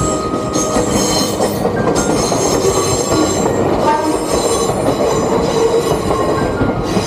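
A short electric train passing close by on the rails, a loud steady running noise with high-pitched squealing tones from the wheels.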